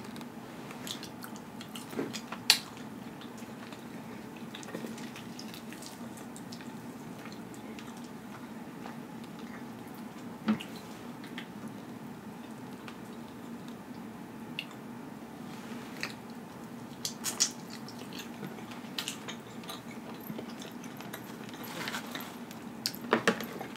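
Close-up eating sounds of crispy rotisserie chicken skin dipped in ranch: scattered crunches and chewing clicks, a few sharper ones now and then and several together near the end, over a low steady hum.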